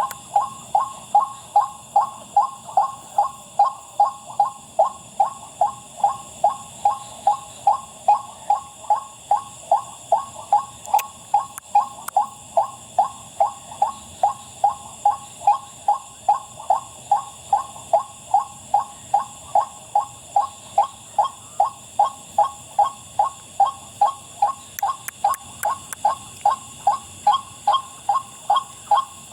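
White-breasted waterhen's 'wak' call repeated at a steady pace of about two calls a second, with a constant insect chorus behind it.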